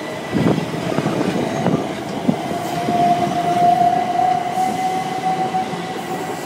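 Class 377 Electrostar electric multiple unit moving along the platform: a steady rumble of running gear with a few clacks over the rail joints in the first couple of seconds, and a whine that rises slightly in pitch.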